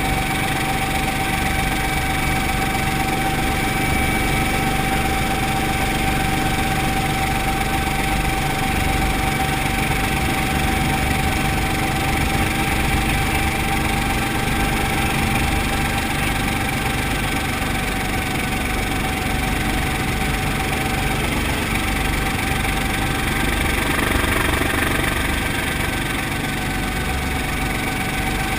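Brantly B-2B helicopter's four-cylinder Lycoming piston engine and rotor running steadily, with a constant whine over the engine drone. It grows briefly louder near the end, then eases slightly.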